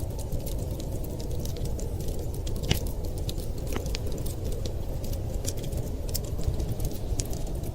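Wood fire crackling, with irregular sharp snaps and one louder pop under a third of the way in, over a steady low rumble of storm wind.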